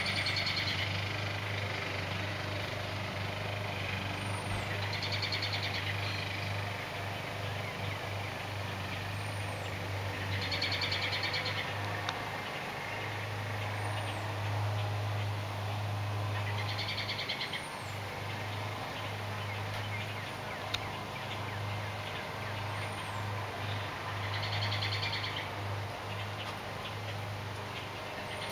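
Songbirds calling: a short buzzy trill repeated about every six seconds and a brief, very high thin chirp every four to five seconds, over a steady low hum.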